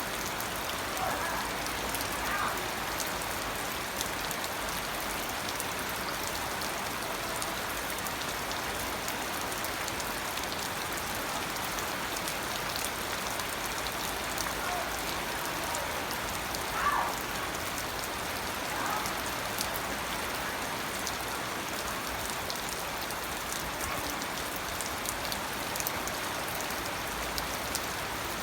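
Steady rain falling, a constant even hiss of drops. A few faint, brief sounds rise above it, the clearest about 17 seconds in.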